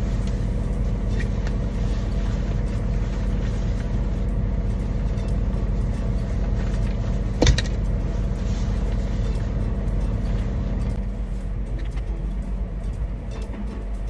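Semi truck's diesel engine idling steadily, heard from inside the cab. A single sharp knock sounds about halfway through.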